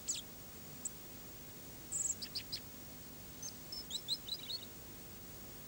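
Small birds chirping in short, high, scattered calls: a few notes about two seconds in, then a quicker run of twittering from about three and a half seconds in.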